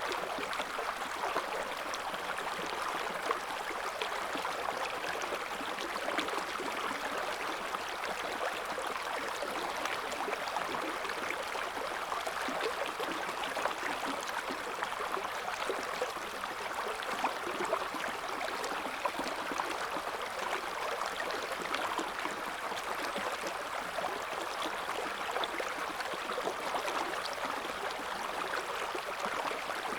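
River water flowing in a gentle current, a steady rush and burble that neither rises nor falls.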